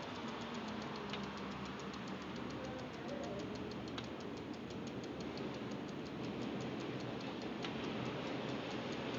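Spinning bicycle wheel ticking evenly, about five times a second, with a sharper knock three times at uneven intervals: the intermittent knocking from the wheel whose cause is unknown.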